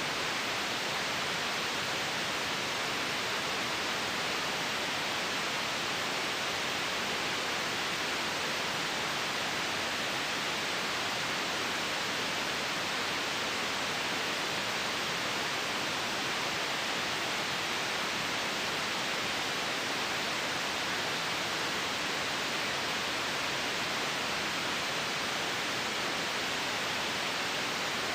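Steady white noise for sleep: an even, unchanging hiss, brightest in the upper middle of the range, with no breaks or events.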